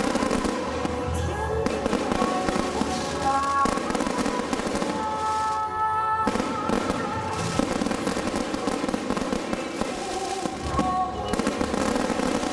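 Fireworks bursting and crackling continuously, a dense stream of pops, with music playing along.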